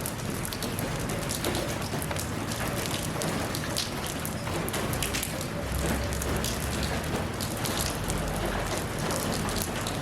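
Steady rain falling, an even hiss with many distinct drops spattering on surfaces.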